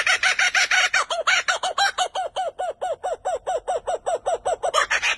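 A bird calling in a fast, even run of short, arched notes, about seven a second.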